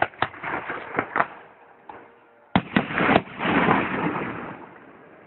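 Fireworks going off: a few sharp bangs near the start, then a louder cluster of bangs about two and a half seconds in, followed by a crackling rumble that fades away.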